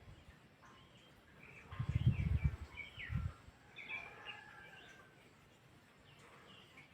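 Small birds chirping in short, scattered calls, with a few low thumps about two to three seconds in.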